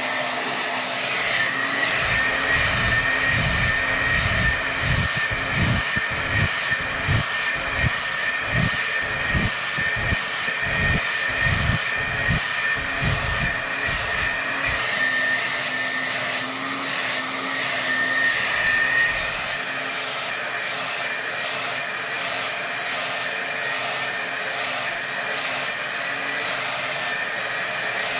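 Hair dryer blowing at full power, a steady rushing hiss with a thin high whine above it. For most of the first two-thirds a low, uneven pulsing rumble rides under it and the sound is a little louder, then it settles back to a plain steady blow.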